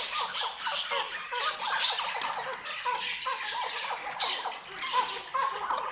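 Chukar partridge calling: a rapid, continuous run of short chirping notes, several a second, with a few louder notes about four and five seconds in.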